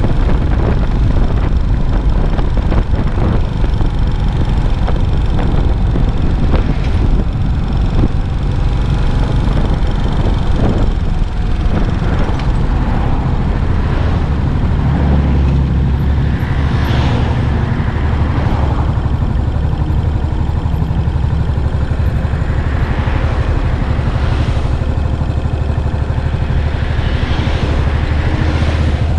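Yamaha SR400's air-cooled single-cylinder four-stroke engine running through its stock muffler while being ridden, its note rising a few times in the second half.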